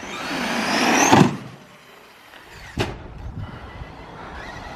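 Brushless electric RC truck accelerating hard at full throttle, its motor whine and tyre noise rising for about a second, then cutting off suddenly as it leaves the ramp. About a second and a half later comes one hard impact as it lands, followed by lighter rolling and scuffing.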